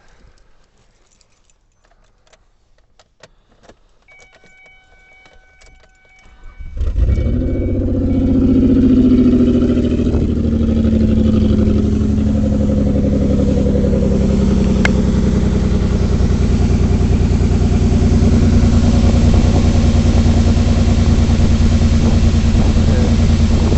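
A few clicks and a steady warning chime, then the 2003 Ford Escape's engine starts about seven seconds in, flares up and drops back to a steady idle. It is running with one ignition coil unplugged, a cylinder-drop test for a misfire; the idle drops, showing that cylinder was firing.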